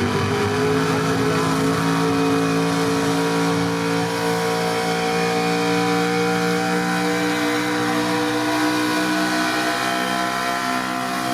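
Pro street gas pulling truck's engine at full throttle under load while pulling the sled, held at high revs with its pitch sagging slowly.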